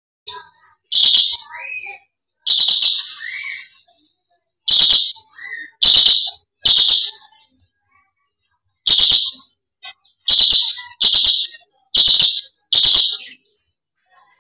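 Dusky lory giving about ten loud, harsh screeching calls, each about half a second long, in irregular bursts with short silent gaps, and a few softer chattering notes in between.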